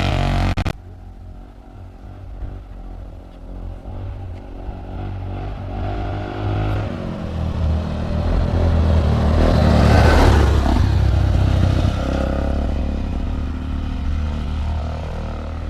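Polaris Sportsman 400 ATV engine running through an aftermarket HMF Swamp Series XL muffler. It is loud at first and drops off sharply under a second in. It then builds up again to its loudest about ten seconds in and eases off a little.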